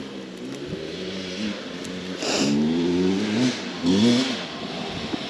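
Dirt bike engine revving: its note climbs and grows louder about two seconds in, then a second short rev comes near the four-second mark.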